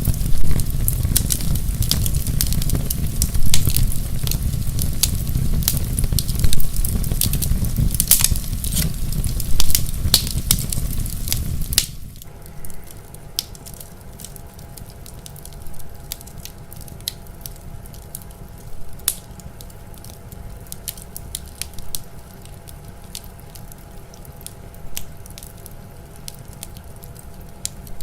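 Fire in a fireplace crackling and popping with frequent sharp snaps over a low rumble. About halfway through the rumble drops away abruptly, leaving quieter, sparser pops over a faint hum.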